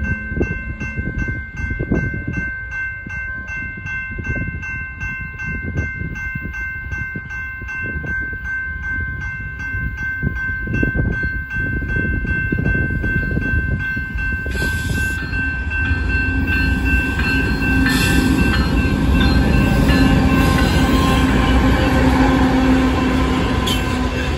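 Railroad grade-crossing warning bell ringing steadily as a BNSF freight train approaches. About two-thirds of the way through, it gives way to the louder sound of the train's diesel locomotives passing close by, a steady low engine drone over rumbling wheels.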